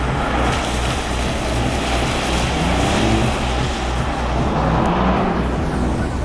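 Jaguar F-Pace SUV's engine revving up and down as it is driven hard through a cone slalom, with a steady rush of road and tyre noise.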